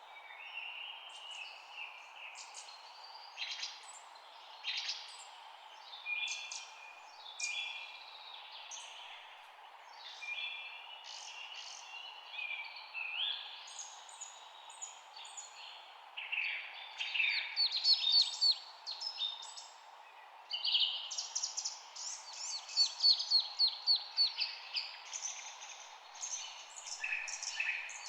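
Several songbirds chirping and singing over a steady background hiss, short whistled notes at first, then fast trilled phrases, loudest from about halfway through.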